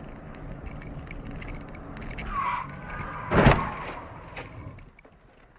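Car road noise picked up by a dashcam, a short tyre squeal about two and a half seconds in, then a loud collision impact about a second later, after which the noise dies down.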